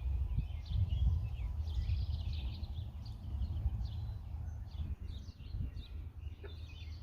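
Several birds chirping and calling in quick, overlapping short notes, over a steady low rumble that is loudest in the first couple of seconds.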